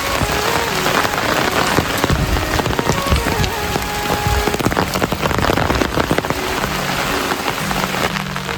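Heavy rain pattering steadily on a surface, a dense crackle of drops, with faint background music underneath.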